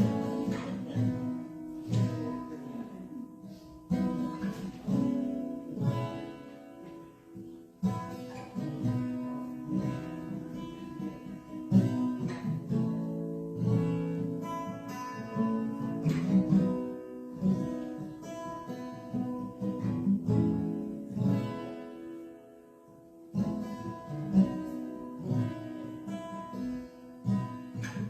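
Acoustic guitar playing a slow instrumental piece of plucked notes and chords.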